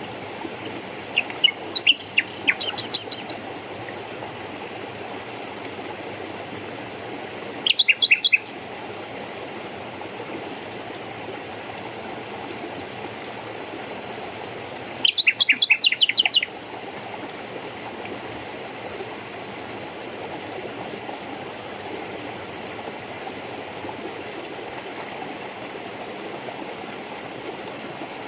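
A songbird singing short phrases three times, each a high whistle falling in pitch and then a quick rapid trill, over a steady rush of running water.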